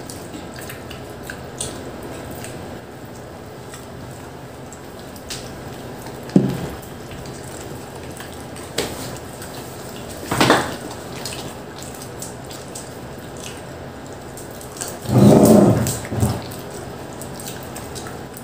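Mouth sounds of eating pizza: soft chewing and a few scattered wet clicks and smacks. A louder low sound lasts about a second near the end.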